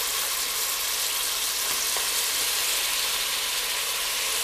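Chopped tomatoes sizzling in hot oil with fried onion and spice masala in a pot: a steady frying hiss.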